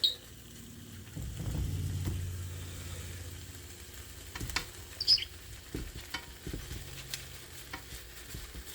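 Eggs sizzling in a frying pan, with scattered light clicks and scrapes of a utensil against the pan. A low hum comes in about a second in and fades away over the next few seconds.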